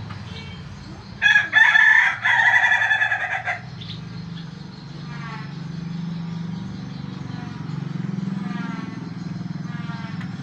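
A rooster crowing once, a loud call of about two seconds starting about a second in, over a steady low hum.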